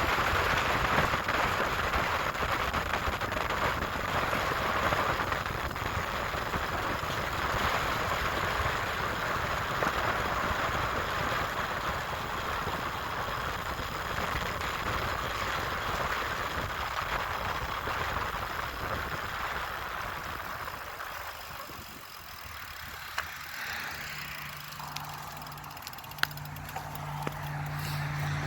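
Steady rushing wind noise from riding a bicycle, which dies down about twenty seconds in. Near the end a low engine drone comes in and grows steadily louder.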